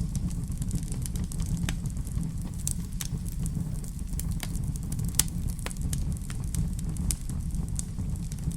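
Wood fire crackling in a fireplace: irregular sharp pops and snaps, a louder one about five seconds in, over a steady low rumble.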